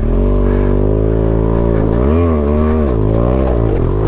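Motorcycle engine pulling hard up a steep slope. The revs hold steady at first, then dip and rise again a few times as the bike struggles for grip.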